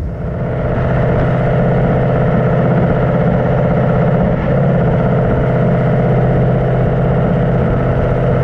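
A 2019 Mustang GT's V8 and Pypes H-pipe exhaust heard from inside the cabin while cruising at highway speed, with the active exhaust in normal mode. The drone is steady and swells during the first second. It is modest enough that it is not much, if any, louder than stock on the highway.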